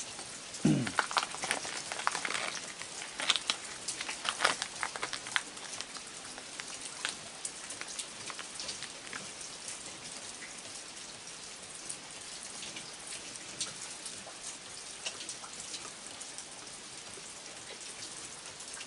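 Steady rain falling, a fine even hiss. A run of sharper taps in the first few seconds, then the rain alone.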